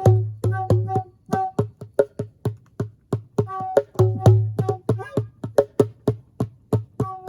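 Djembe played by hand in a steady improvised rhythm, about three or four strokes a second, mixing deep booming bass strokes with sharp slaps and short ringing pitched notes.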